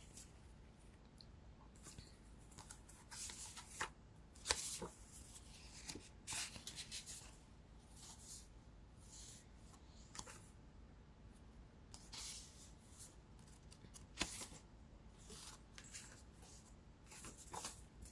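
Faint, scattered swishes and taps of tarot cards being shuffled and handled.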